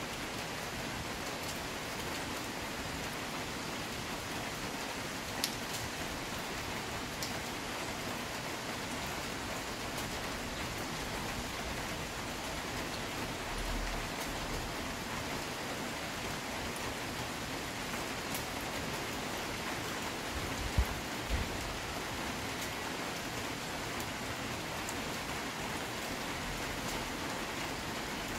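Steady rain falling on dense trees and a wet ledge, an even hiss, with a few sharp taps early on and a dull knock about two-thirds of the way through.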